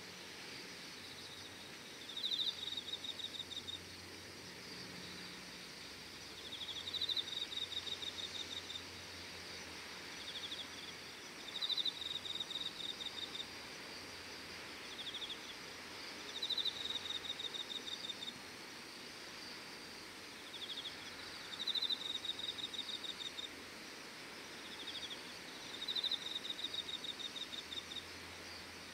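An insect calling in a repeating phrase: about every five seconds a short high buzz, then a rapid pulsed trill lasting a second or two, over a faint steady hiss.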